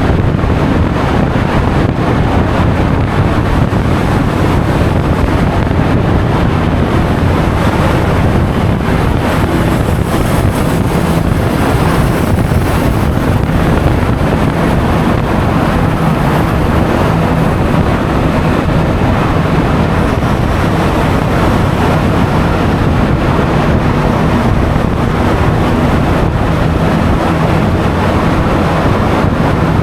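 Loud, steady wind buffeting the action camera's microphone while riding at speed on a Honda Forza 350 scooter, with the scooter's single-cylinder engine humming evenly and road noise underneath.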